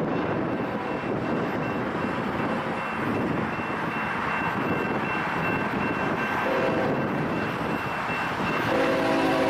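Approaching train rumbling steadily. Near the end the locomotive's multi-chime air horn begins to sound, after a faint first note a couple of seconds earlier.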